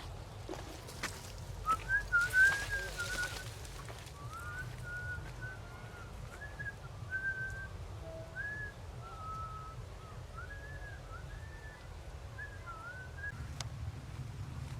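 A string of short whistled notes, each sliding up or down a little, going on for about twelve seconds. A brief burst of rustling comes about two seconds in, over a steady low rumble.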